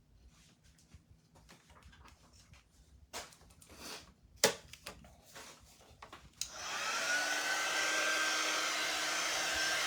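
Faint handling clicks, one sharp, then a hair dryer switched on about six and a half seconds in, running steadily with a whine that rises briefly and then holds.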